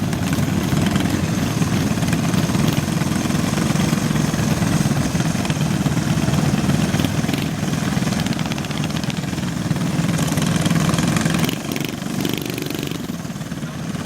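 Minibike engines running steadily, with the sound dropping somewhat in level near the end.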